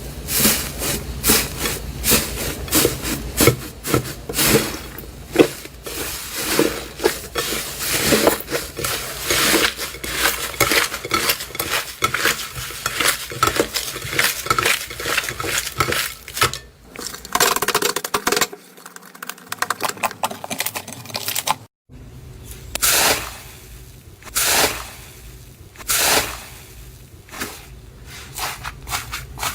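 Slime being squished and pressed by hand: a dense run of sticky clicks, pops and crackles, briefly breaking off twice.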